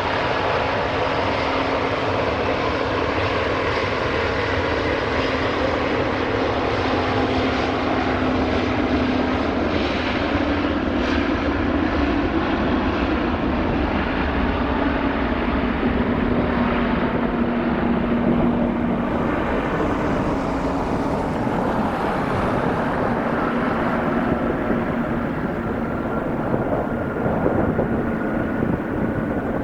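Airbus A350 jetliner taking off, its Rolls-Royce Trent XWB turbofans at takeoff power in a loud, steady roar with a low hum running through it. From about twenty seconds in the sound grows duller as the jet draws away.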